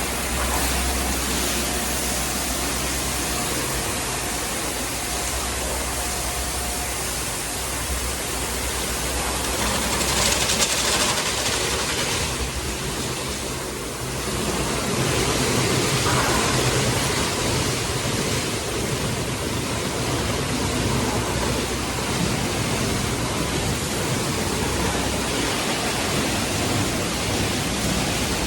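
Express car wash tunnel equipment running at first start-up, dryer blowers off: a steady rush of water spray over a low machine hum, with a brief louder hiss about ten seconds in.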